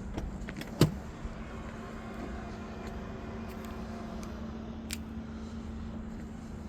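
2019 Range Rover Sport HSE engine idling steadily with an even low hum. A single sharp click about a second in, and a fainter one about five seconds in.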